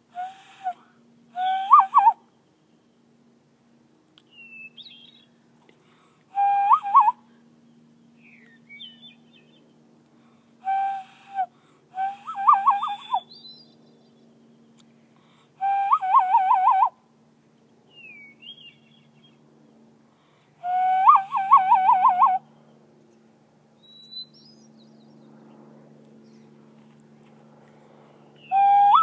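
A person whistles a call-and-answer with a wild bird. About six times, a loud whistled phrase holds one note and then breaks into a quick warble. Between the phrases come faint, short, higher calls from the bird.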